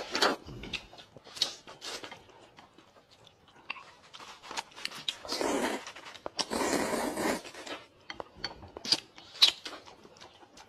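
Eating sounds: chewing and biting, with scattered short crunchy clicks and two longer noisy stretches just past the middle.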